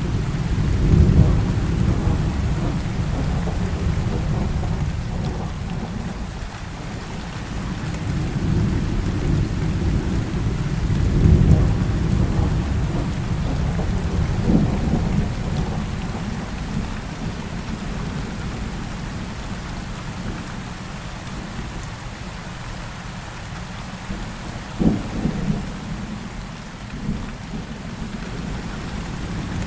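Heavy rain falling steadily under rolling thunder. The rumbles swell and fade, loudest about a second in and again about eleven seconds in, with sharper cracks later on.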